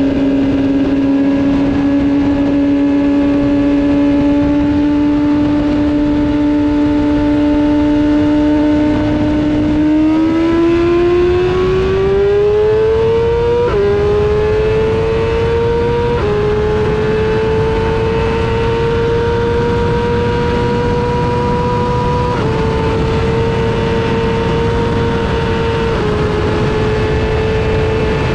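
BMW S1000RR inline-four engine heard from on board over heavy wind rush. It holds a steady note for about ten seconds, then pulls at full throttle up through the gears: the pitch climbs and drops back at four upshifts, from second to sixth. It settles into a high, almost level note at around 320 km/h, near top speed.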